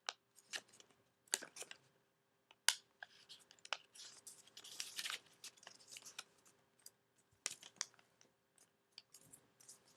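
A square of origami paper being pushed, folded flat and creased by hand: irregular crinkles and sharp paper crackles, the loudest about three seconds in and a denser rustle around five seconds in.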